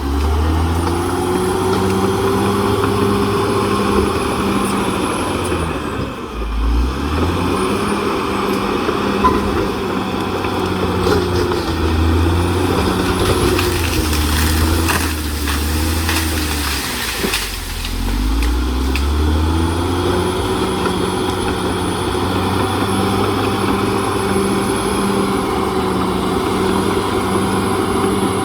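CAT D6R XL bulldozer's diesel engine running under load, its pitch rising and falling as the machine works, dipping briefly twice, with a thin high whine over it.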